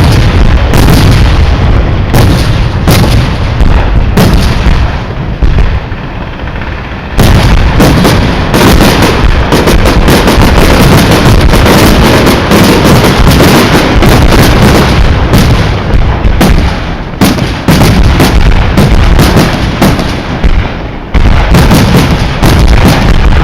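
Fireworks barrage: shells bursting one after another in rapid, near-continuous succession, very loud. There are brief lulls about five seconds in and again about twenty seconds in, each followed by more bursts.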